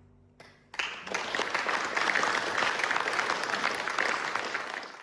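Audience applauding at the end of a choral performance. The last chord fades away, one early clap comes just under half a second in, and full applause starts at about a second and holds steady until it cuts off suddenly at the very end.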